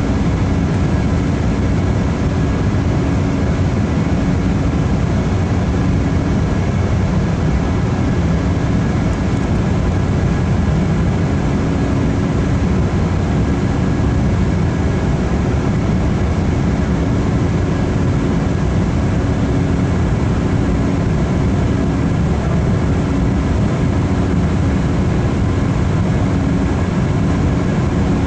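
Embraer 190 jetliner with its GE CF34-10E turbofans, giving a steady, even roar of engine and airflow noise in the cabin during the climb after take-off, with a faint steady hum running through it.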